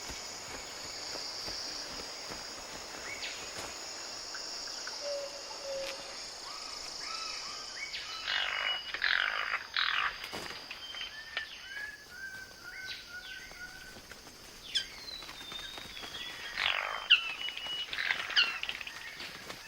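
Male birds of paradise calling in the rainforest: scattered short whistled notes, a run of quick repeated notes, and two bouts of harsh rasping calls, over a steady high-pitched insect drone.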